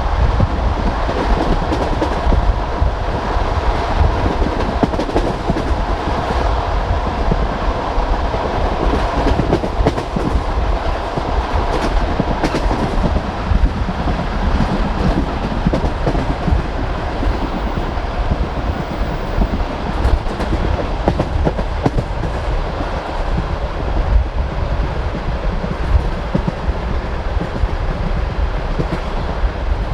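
Passenger train carriage running along the line: steady rumble of the wheels with the clatter of wheels over the rail joints, sharp knocks now and then.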